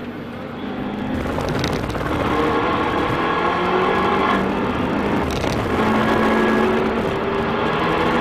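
Fiat 500 Abarth's turbocharged 1.4-litre four-cylinder engine heard inside the cabin, accelerating hard on a race track: the engine note climbs in pitch and grows louder, breaks briefly for a gear change about five seconds in, then climbs again.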